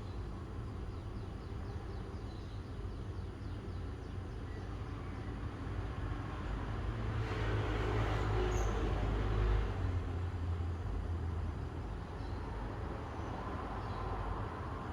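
Outdoor ambience with a steady low rumble, over which a vehicle passes: the noise swells for a few seconds and then fades away. A few faint bird chirps sound now and then.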